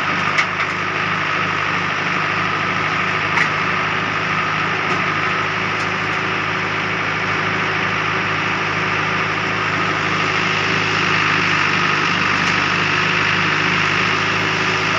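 Heavy diesel machinery engine running steadily at a constant speed, with a couple of brief sharp clicks or knocks, one just after the start and one about three and a half seconds in.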